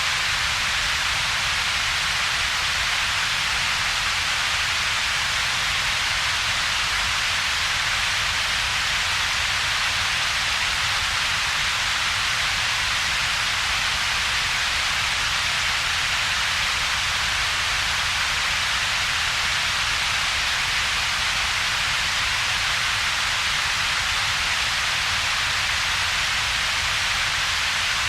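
Steady synthetic double-peaked noise: a bright, hissy upper band and a weaker low rumble, with little in between. It does not change.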